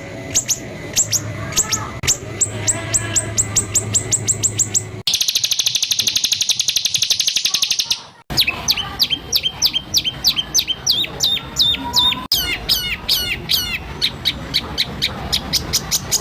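White-rumped shama (murai batu) singing rapid-fire 'tembakan' bursts: quick runs of sharp down-slurred whistled notes, about six a second, broken in the middle by a dense buzzing rattle of about three seconds that cuts off abruptly, then more fast runs of whistled notes.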